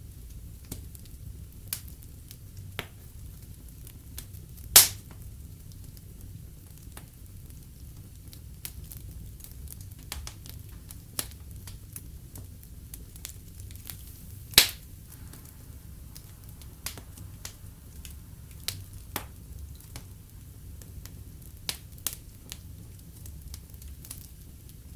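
Fire crackling in a fireplace: scattered small snaps and ticks over a steady low rumble of the flames, with two loud pops, about five and fifteen seconds in.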